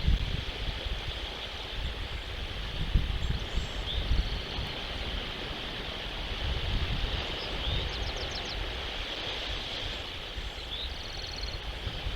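Wind buffeting an outdoor nest-cam microphone, giving a low uneven rumble over a steady hiss, with a few faint, short, high bird chirps and quick trills now and then.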